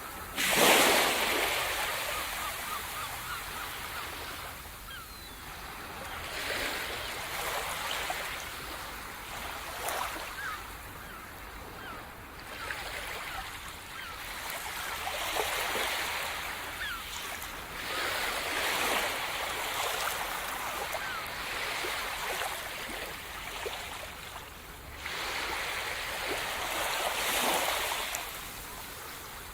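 Sea surf breaking and washing ashore in repeated swells every few seconds, the loudest crashing in sharply about half a second in.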